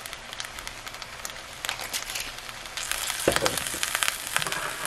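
Fried rice with broccoli and veggie meat sizzling and crackling in a nonstick skillet, the crackling growing louder partway through. A single dull knock about three seconds in.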